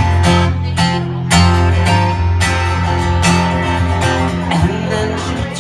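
Live guitar music with no singing: acoustic guitar strummed in a steady rhythm over a low bass line.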